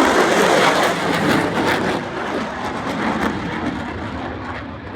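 Loud crackling roar of fighter jet engines from a formation of F-35A Lightning IIs and F/A-18F Super Hornets passing by, fading steadily as the jets move away.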